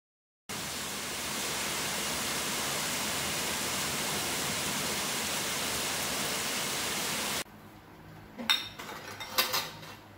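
Heavy rain pouring steadily on trees, starting abruptly about half a second in and cutting off suddenly about seven seconds in. Then a metal ladle and tableware clink against a stainless steel pot and bowls, with a few sharp clinks.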